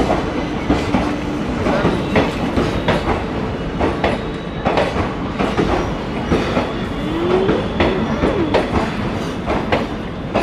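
Indian Railways passenger coaches of an arriving express rolling past along the platform, their wheels clattering over the rail joints in a continuous, uneven run of clicks and knocks.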